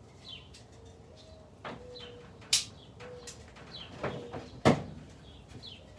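Sharp clicks and knocks from handling and setting the controls of a GE window air conditioner before it starts, the loudest about two and a half and nearly five seconds in, over faint short chirps.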